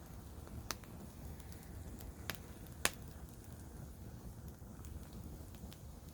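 Campfire burning with a low steady rumble, the wood giving three sharp crackling pops, the loudest about three seconds in.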